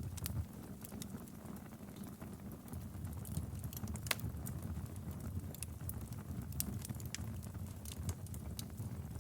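Wood fire crackling in a fireplace: a steady low rumble of burning with scattered sharp pops and snaps, one louder pop about four seconds in.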